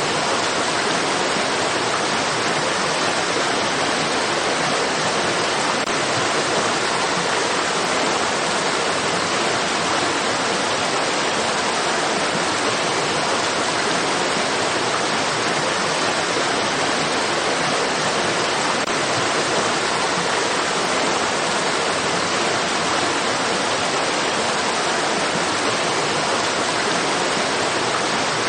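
A stream's water rushing steadily, an even hiss with no changes.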